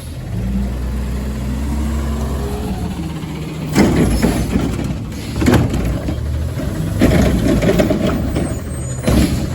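Front-load garbage truck's diesel engine running, with short loud noisy bursts about four seconds in, again around five and a half seconds, and just after nine seconds; the engine grows louder from about seven seconds.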